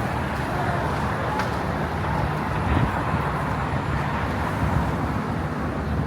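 Steady city street traffic noise: a constant rumble of passing vehicles.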